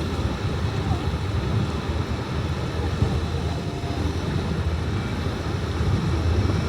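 Steady low rumble of a river cruise boat's engine under way, mixed with wind buffeting the microphone.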